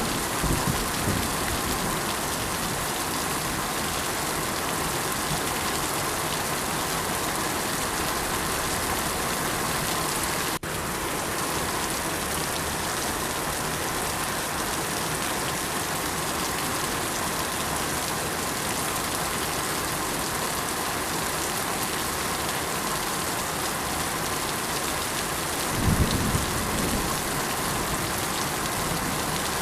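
Steady rain falling on surfaces, an even hiss of many drops. It cuts out for an instant about a third of the way in, and a short low rumble rises and fades near the end.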